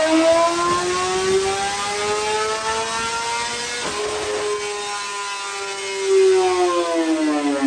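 Inline-four sport bike engine run hard on a dyno: the revs climb slowly and hold high, with a brief break about four seconds in, then drop away near the end as the pull finishes.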